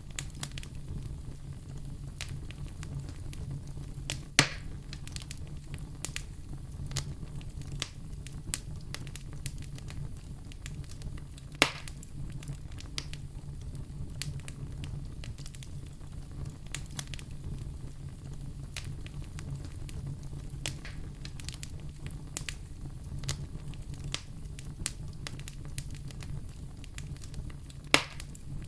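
Wood fire in a fireplace crackling, with many small pops over a steady low rumble. Three louder pops stand out: about four seconds in, about twelve seconds in, and near the end.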